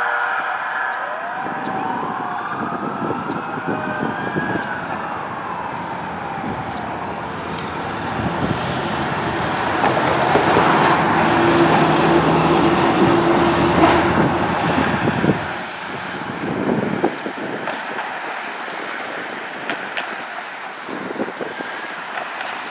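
Emergency vehicle siren winding up and falling once in the first few seconds, then a heavy vehicle's engine and tyre noise swelling past around the middle and fading into road traffic.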